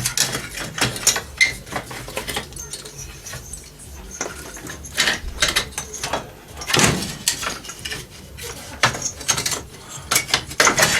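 Hand tools and metal parts clinking, knocking and scraping irregularly as the exhaust pipe is worked off a mini dirt bike, with a louder knock about seven seconds in.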